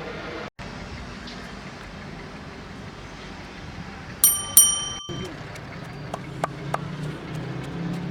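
Two sharp metallic rings, like a small bell struck twice in quick succession, each ringing on for about a second, over steady background noise, with a few light clicks afterwards.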